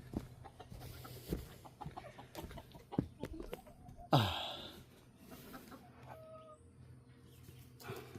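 Chickens clucking over scattered knocks and rustling, with one loud sudden sound about four seconds in that falls in pitch as it fades.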